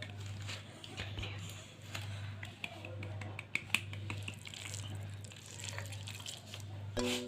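Dough being rolled out and handled on a board: scattered soft taps and clicks of the rolling pin and hands over a low hum that pulses about twice a second. Music with held tones comes in at the very end.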